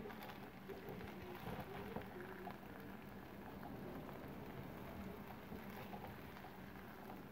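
Fried rice sizzling in a cast-iron pan as a spatula stirs and tosses it, with small clicks and scrapes throughout, over a steady low hum.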